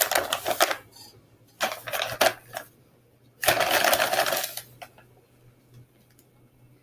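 Rustling and light clattering in three bursts of about a second each, as floured chicken pieces are handled and laid into an air fryer's fry basket.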